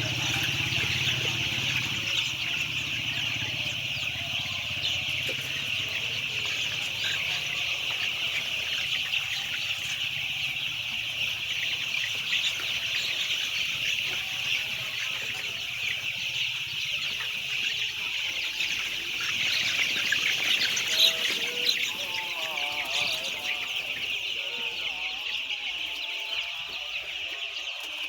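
A huge flock of white chicks peeping all at once, a dense, unbroken chorus of high calls. A low hum underneath fades out in the first few seconds.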